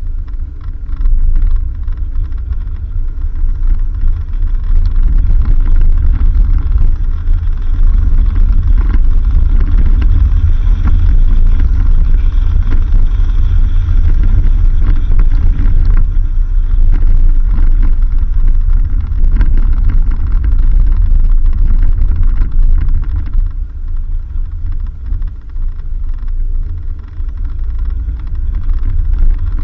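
Vehicle driving along a dirt road: a continuous low rumble of engine and tyres, easing off for a few seconds past the middle.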